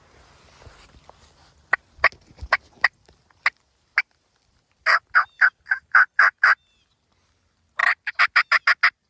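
Turkey calling: a few sharp, spaced clucks, then a series of about seven loud yelps, and near the end a quicker run of about seven notes.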